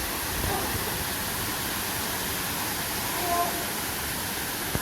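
Steady rush of a waterfall, with faint voices now and then.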